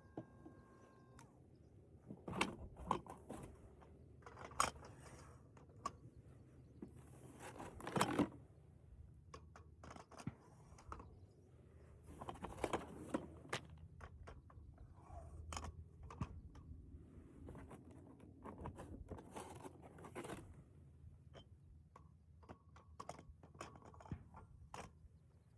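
Shotgun shells being handled and loaded into the tube magazine of a Benelli M2 20-gauge: scattered light clicks, scrapes and rustles, with no shots fired.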